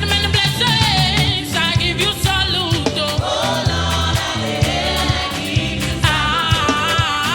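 Gospel choir singing over a band, with bass notes and frequent drum hits under the voices.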